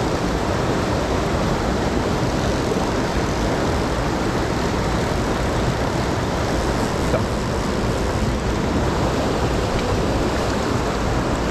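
Mountain stream water rushing over rocks, a steady unbroken noise.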